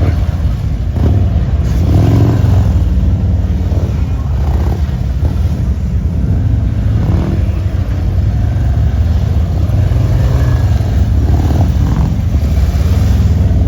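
Motorcycle engine running at low speed, with the throttle rising and falling now and then.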